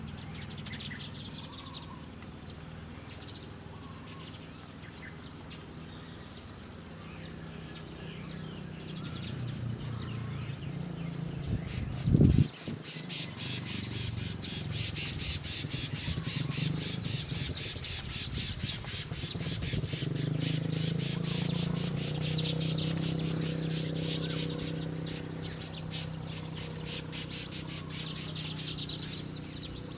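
Wild birds chirping and calling. About twelve seconds in there is a short loud knock, and then a dense, fast, high chatter runs until near the end, with lower calls beneath it.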